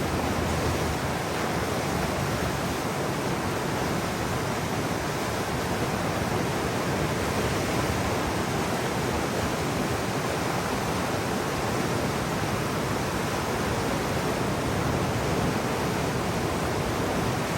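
Steady, even rush of moving water, unbroken and unchanging.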